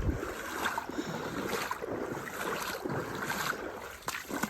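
Fast creek water rushing and splashing around the legs of someone wading upstream in waders, swelling in repeated swishes, with a couple of sharp knocks near the start and near the end.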